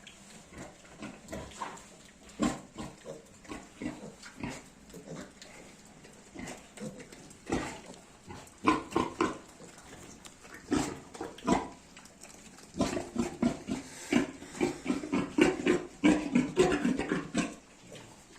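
Piglet grunting in short, scattered grunts, breaking into a fast run of grunts for several seconds near the end.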